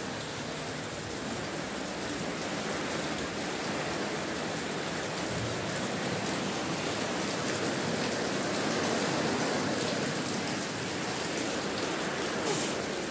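Heavy rain falling steadily on a house roof, heard from inside under a leaking ceiling, with a brief louder swell near the end.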